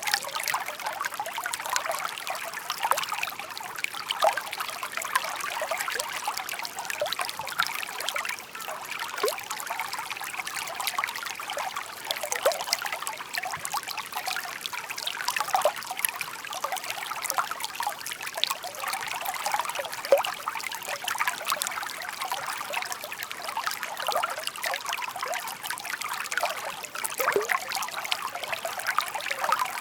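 Shallow murmuring stream trickling and babbling: a steady, busy patter of small splashes without any deep rush.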